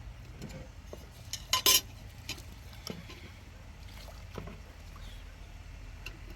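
A brief ringing clink of a hard object about one and a half seconds in, with a few lighter knocks around it, over a low steady rumble.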